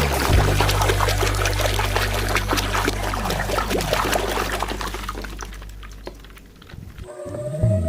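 Water pouring and splashing, dying away about six and a half seconds in.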